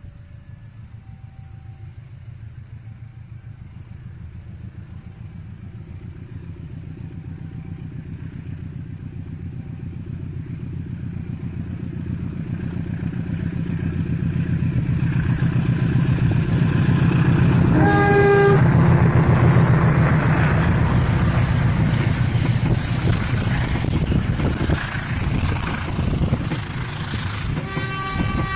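KAI CC201 diesel-electric locomotive approaching and passing, its engine growing steadily louder, with a short horn blast about two-thirds of the way through and another near the end.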